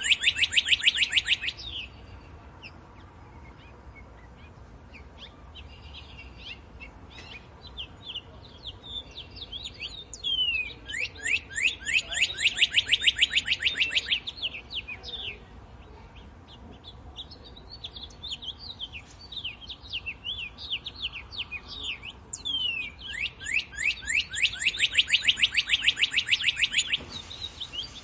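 Birds singing. One bird repeats a loud, fast trill of rapidly falling notes three times, each lasting a few seconds, with softer chirps from other birds in between.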